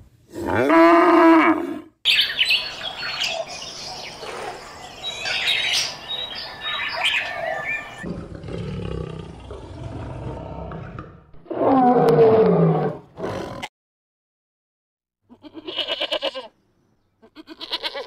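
A run of animal calls: a cow moos once near the start, then a tangle of bird chirps, a lion's low rumbling roar ending in a falling call, and near the end two quavering goat bleats.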